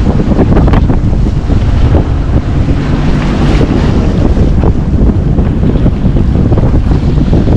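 Loud wind buffeting the microphone on a yacht under way, with the rush of sea and waves around the boat.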